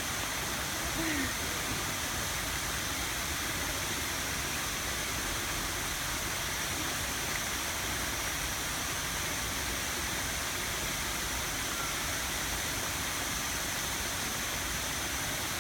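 Steady rush of running water at a fish pond, an even, unbroken hiss.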